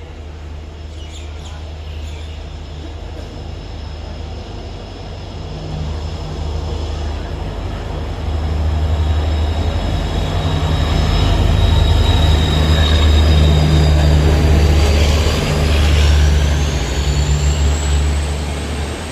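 Indian Railways express train running through at speed, its wheels rumbling heavily on the track and growing louder to a peak past the middle. A high thin whine rises in pitch near the end.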